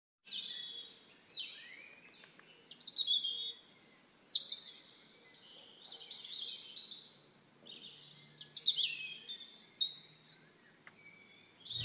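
Songbirds chirping: a run of short whistled notes, many sliding down in pitch, coming in clusters with brief quieter gaps.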